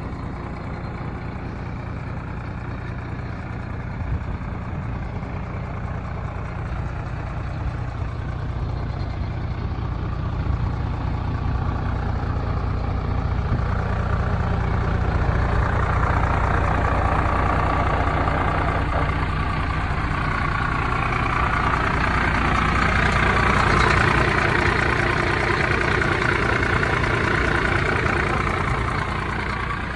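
Scania 113 H 360 truck's 11-litre inline-six diesel engine running steadily, growing louder from about ten seconds in and easing back near the end.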